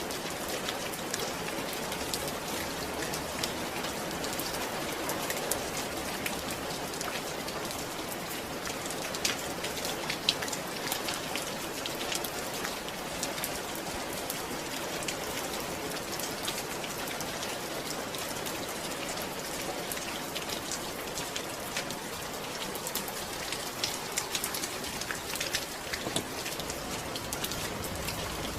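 Steady rain falling, a continuous hiss with many small drop patters. A few louder drops stand out about nine and ten seconds in.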